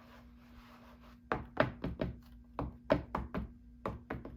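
A rubber stamp being tapped down repeatedly: about a dozen quick, sharp taps over three seconds, starting about a second in.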